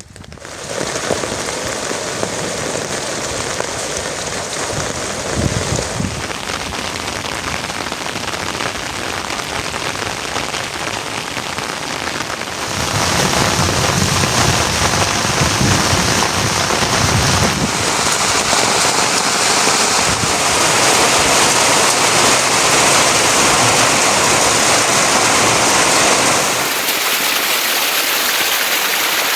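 Steady heavy rain falling, a dense even hiss that turns louder about halfway through.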